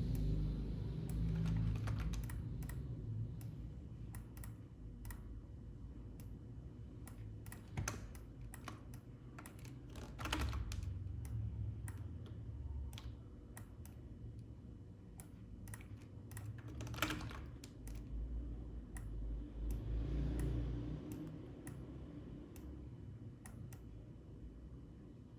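Computer keyboard keys clicking in irregular, scattered taps as someone works at a computer, with a low rumble underneath that swells now and then.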